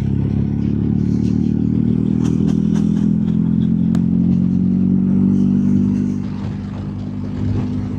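BMW R1250GSA's boxer-twin engine running steadily while riding on the road, its note easing off about six seconds in.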